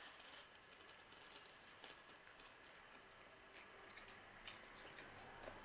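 Faint chewing of a bite of pizza, with scattered soft mouth clicks.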